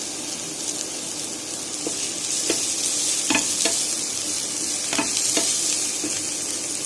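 Onions and carrots sizzling in hot oil in a pan as they are stir-fried, with a few light clicks and scrapes of the spatula against the pan.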